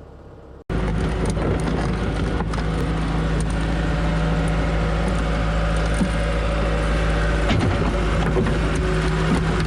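A heavy diesel engine running steadily at an even pitch, with a few light clicks over it. It cuts in suddenly, under a second in.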